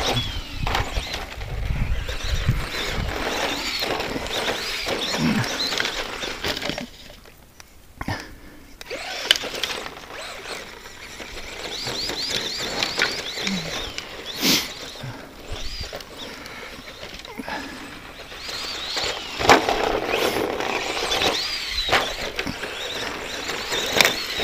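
Brushed electric RC stadium truck with a 15-turn upgrade motor running laps on a rough dirt track: the motor and gears whine up and down in short bursts with the throttle, while the tyres scrabble and the chassis knocks over bumps and landings. It goes quieter for a moment around seven seconds in, and a few sharp knocks stand out later.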